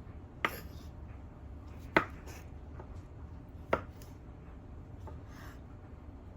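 Knife chopping on a cutting board: three sharp, separate chops spaced about one and a half seconds apart, with softer knife and board sounds between them.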